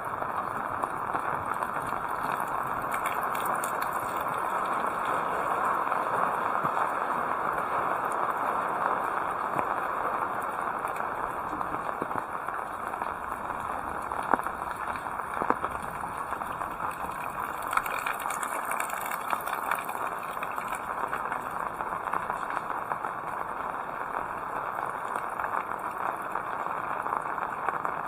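Heavy rain falling steadily, an even hiss of drops, with two sharper ticks near the middle.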